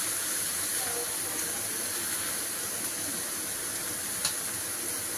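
Sawi putih greens sizzling in a hot wok, a steady hiss as the liquid in the pan steams off, with one light click of the metal spatula against the wok about four seconds in.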